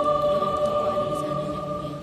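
Choir singing a hymn, holding a long sustained chord that fades away near the end.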